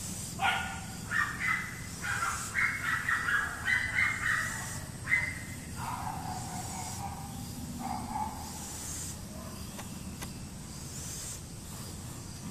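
A bird calling in a quick series of short chirps that step up and down in pitch for about five seconds, then two lower calls.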